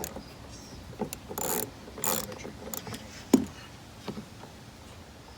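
Hand tools unfastening screws in a truck's interior: a few short spells of ratchet-like clicking, and one sharp knock a little over three seconds in.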